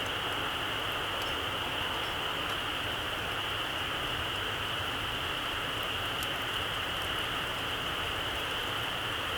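Very small campfire burning low on its embers: a steady hiss with a few faint, scattered crackles.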